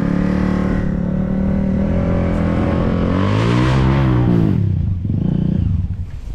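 Enduro dirt bike engine running under throttle. About three seconds in it revs up, then falls back to a lower, steady pitch a second and a half later.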